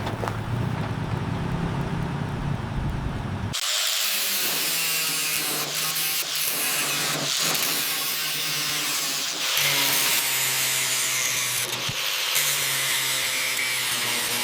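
A low rumble that cuts off abruptly about three and a half seconds in, followed by a power tool running with a steady hum and a loud hiss.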